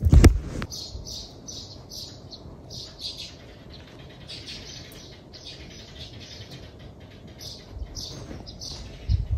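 Small birds chirping, short high chirps repeating in quick runs. Just after the start comes a loud, brief close-up thump and rustle as a kitten pounces on a string toy on the rug, with another softer thump near the end.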